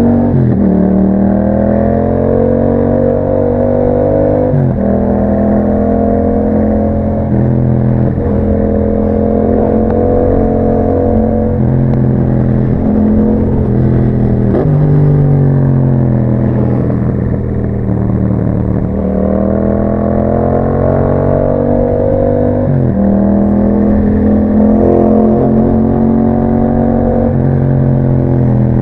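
Yamaha MT-07's 689 cc parallel-twin engine through an Akrapovič exhaust, heard while riding: the pitch climbs and drops back several times as the bike accelerates, changes gear and eases off.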